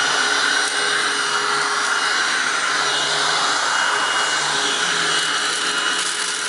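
Hoover Windtunnel Self Propelled upright vacuum (model U6485900, 12 amp motor) running steadily at full power, very loud, with a held whine over the rush of air.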